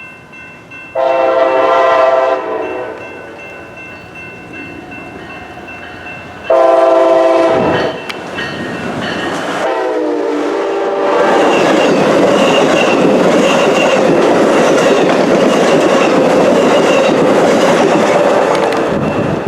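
A fast train sounds its multi-tone air horn: two long blasts, a short one, then the train passes close by at speed with loud wheel and rail noise that drops away near the end.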